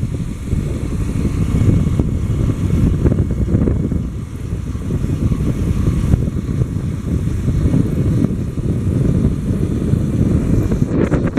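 A motorcycle on the move, with heavy wind rushing over the microphone over the sound of the engine.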